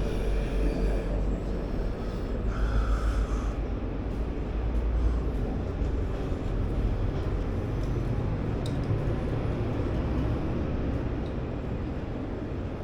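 Steady low rumble of city street traffic, with faint voices in the first few seconds and a single click near the end.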